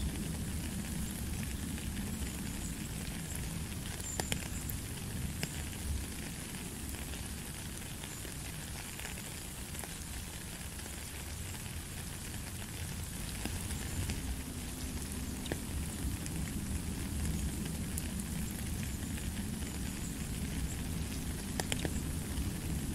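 Steady rain falling on a wooded gravel path, drops pattering into a puddle, with a few sharper drip clicks here and there.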